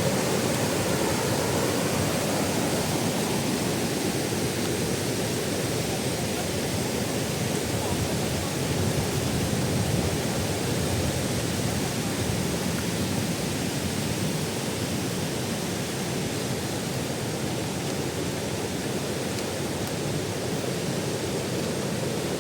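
Waterfall running steadily: an even, unbroken noise of falling water, deepest and heaviest in its low and middle range.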